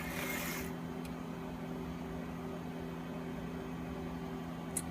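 Steady mechanical hum of a few low tones, like a running fan or motor, with a short rustle about half a second long at the start and a light click near the end.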